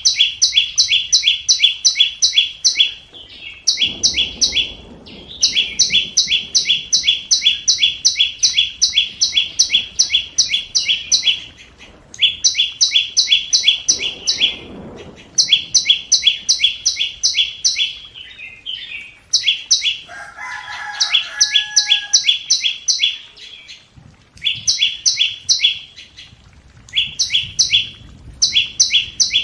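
Flowerpecker, most likely a scarlet-backed flowerpecker, giving its sharp, high 'tik' call over and over at about five or six ticks a second, in runs of several seconds with short pauses. About two-thirds of the way through, a lower, whistled call from another bird comes in briefly.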